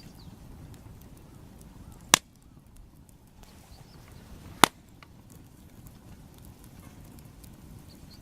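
Two sharp knocks about two and a half seconds apart, over a low steady rumble, with faint bird chirps.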